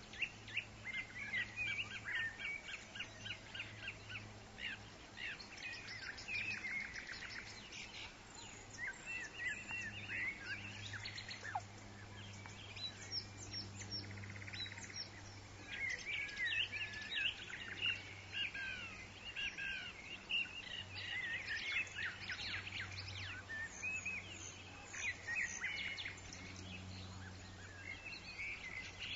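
Forest ambience full of many overlapping bird calls: quick chirps, trills and whistles going on throughout, over a steady low hum.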